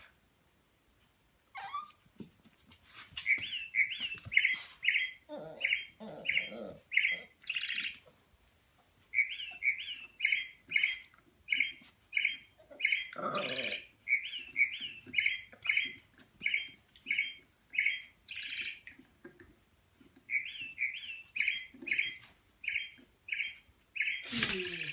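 Motion-activated plastic toy bird giving electronic chirps over and over, about two a second, in three long runs with short pauses, set off by movement in front of its sensor. A puppy's whines or yips come in among the chirps a few times, and there is a sharp knock near the end.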